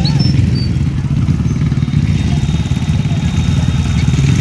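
Vehicle engines running steadily in jammed traffic, a low rumble with fast, even pulsing.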